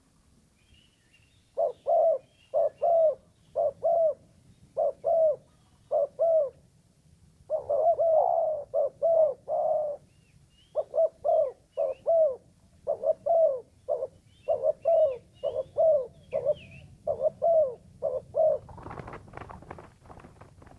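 Decoy spotted dove (terkukur) cooing over and over in short phrases of two or three notes, with faint small-bird chirps in the background. Near the end the cooing stops and a rustling noise takes over.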